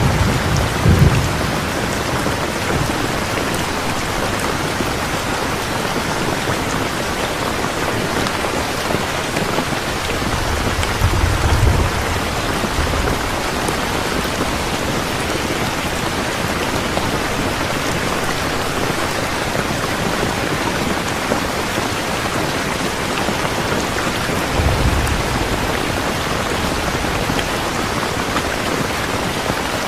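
Steady heavy rain, with low rolls of thunder at the start, about ten seconds in and again near twenty-five seconds in.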